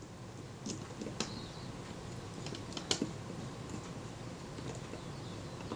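Scattered light clicks and taps of small metal hand tools being picked up and put down, over a faint low hum.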